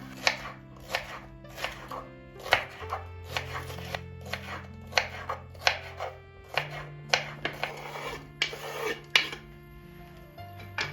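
Knife chopping food on a cutting board: a run of sharp, unevenly spaced knocks, about one or two a second.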